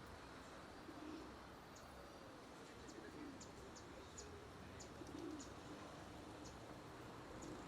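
Faint bird calls over a steady background hiss: a few low cooing notes, like a dove's, and scattered short, high chirps.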